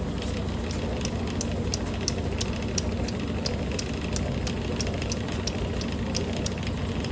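Washing machine running on its spin cycle: a steady low hum with light, irregular ticks or rattles a few times a second.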